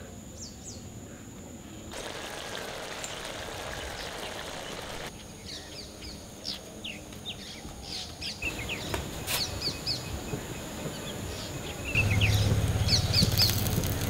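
Small birds chirping in many short, quick notes over a steady outdoor hiss; a low steady drone comes in near the end.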